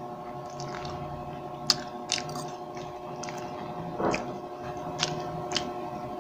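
Close-up mouth sounds of someone chewing food, picked up by a clip-on microphone, with a few sharp wet clicks and smacks and a brief hum in the throat about four seconds in, over a steady background hum.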